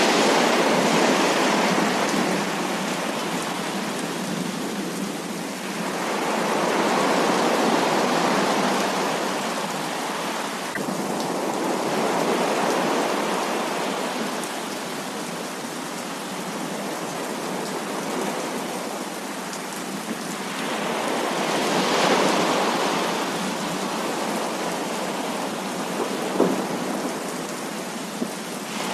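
Heavy rain pouring steadily with thunder, swelling louder in slow rolls near the start, about a quarter of the way in and again about three quarters through. There is a single sharp tap near the end.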